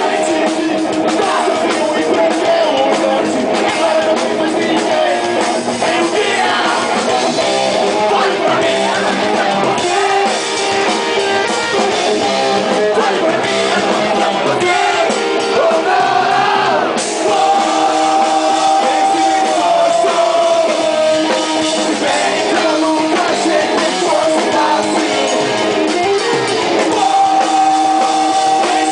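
Loud, continuous rock music with singing.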